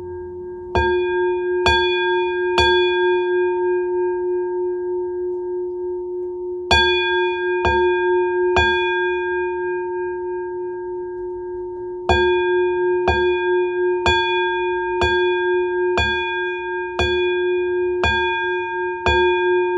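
A bell struck in a pattern: three strokes, a pause, three more strokes, then a steady run of about one stroke a second, each stroke ringing on with a long sustained tone that overlaps the next.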